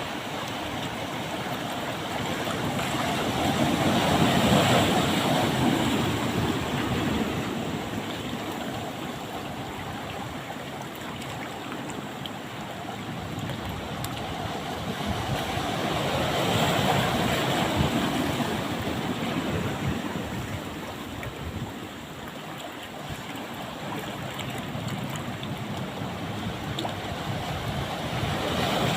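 Ocean surf: waves breaking and washing up the beach in a steady rush, swelling twice as two big waves come in.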